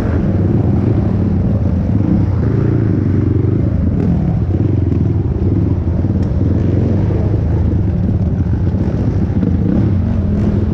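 Honda TRX450R quad's single-cylinder four-stroke engine running hard, its pitch rising and falling as the throttle opens and closes.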